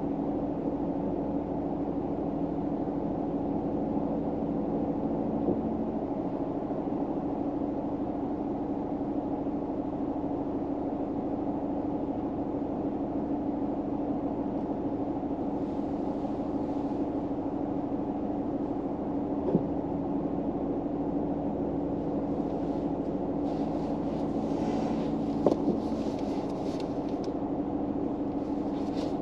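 Steady low drone inside a car cabin, with soft rustles and a couple of small clicks about two-thirds of the way in.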